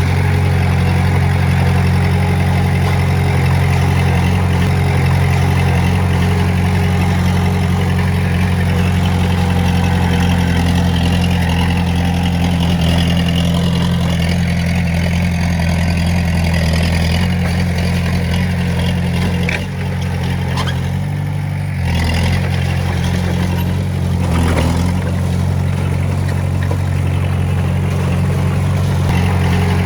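Diesel engine of a Komatsu D20A bulldozer running steadily. It drops off briefly about twenty seconds in, then picks up again.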